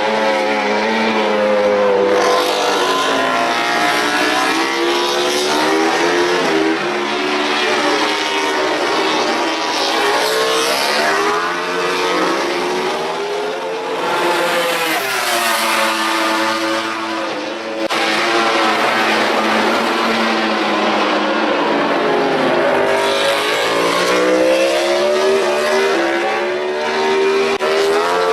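MotoGP racing motorcycles' four-cylinder engines at high revs, pitch rising and falling as they accelerate, shift and brake past, with several machines overlapping. The sound changes abruptly a little past halfway.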